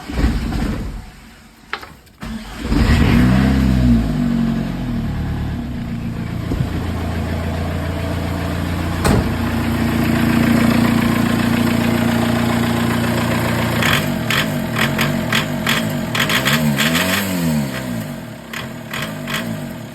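Freshly rebuilt VW 1.9 TDI (AHU) four-cylinder turbodiesel starting about two seconds in, revving up and settling to a steady idle, then revved up and back down once more near the end. A quick series of sharp clicks sounds over the running engine in the last few seconds.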